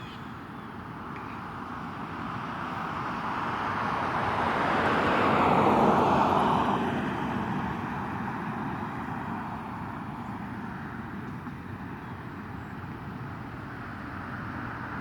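A car driving past on the road: steady tyre and engine noise that swells to its loudest about halfway through, then fades away.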